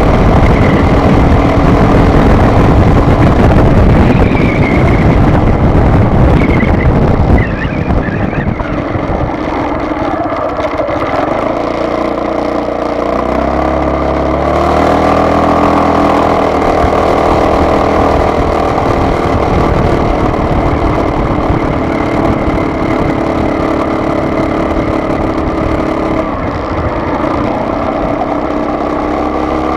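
Car being driven: continuous engine and road noise, heavier for the first seven seconds or so, then the engine's hum rising and falling in pitch as speed changes.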